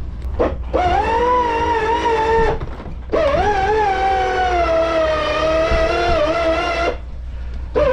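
A horn sounding in long blasts, one of about two seconds and one of about four, with a slightly wavering pitch, and a short blast starting near the end. A steady low hum runs underneath.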